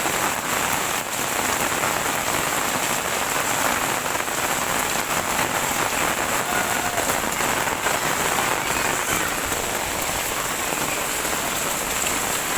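Heavy rain falling steadily, the drops pattering on surfaces.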